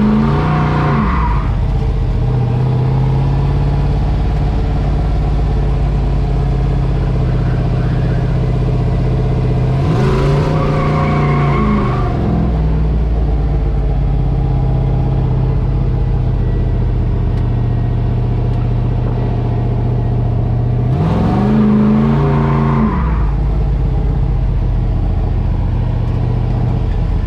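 Drift truck engine running with a steady drone, revving up and back down over about two seconds, about ten seconds in and again about twenty-one seconds in, with another rev falling away at the very start.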